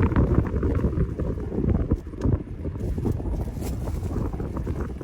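Strong headwind buffeting the microphone in gusts, a heavy, uneven low rumble.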